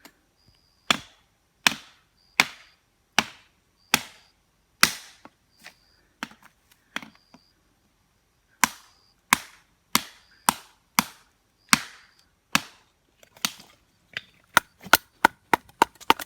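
Repeated sharp blows of a striking tool, about one every three-quarters of a second in two runs separated by a pause of a few seconds, then quicker, lighter taps near the end.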